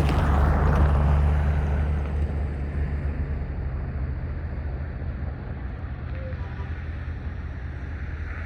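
GP40-2 diesel locomotive running with a steady low drone, louder for the first couple of seconds and then easing off slightly.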